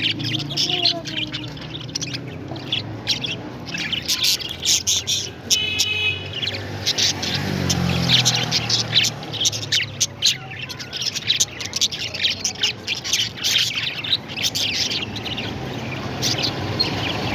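A flock of parrots chirping and squawking together, many short high calls overlapping without pause, with a quick run of repeated notes around six seconds in.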